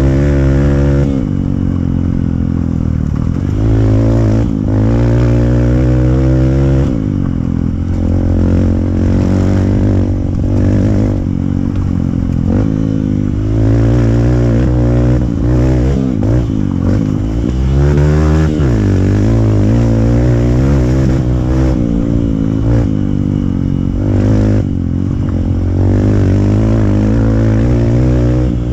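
Hero Impulse's single-cylinder engine running through a free-flow exhaust on an off-road trail ride. The engine pitch rises and falls over and over as the throttle is opened and closed.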